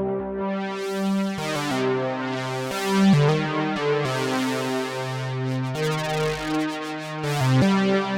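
Behringer Poly D analog synthesizer playing held notes and chords that change about every second, its tone brightening and darkening in swells.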